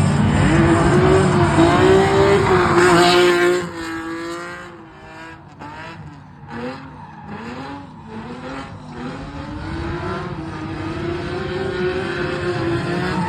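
Infiniti G37's V6 engine running hard while the car drifts, with tyre squeal. About three and a half seconds in it drops suddenly to a quieter stretch where the pitch wavers up and down, then builds back up steadily toward the end.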